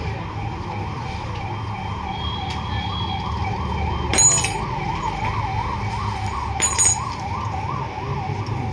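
A siren wavering up and down about twice a second, going on throughout, with two sharp metallic clinks about four and seven seconds in.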